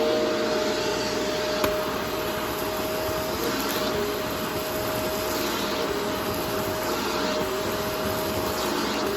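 Vacuum cleaner running steadily with a constant motor whine, one sharp click about a second and a half in, and a faint rise and fall every couple of seconds.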